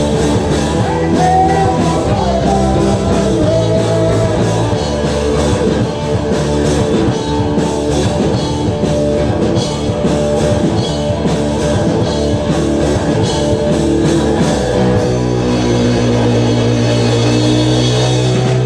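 Live rock band playing, with drums and guitars. Near the end the band holds long low notes.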